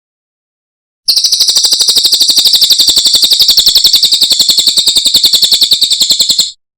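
Cililin songbird singing one long, rapid, even trill of high notes, about a dozen a second, lasting some five seconds. It starts about a second in and stops abruptly.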